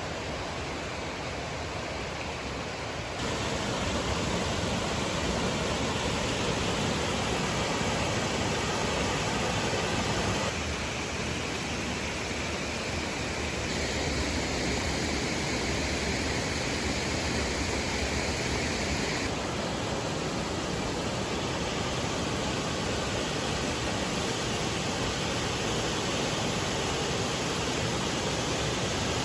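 Steady rushing of falling water from a waterfall, a dense even roar with no breaks. Its loudness and tone shift abruptly a few times.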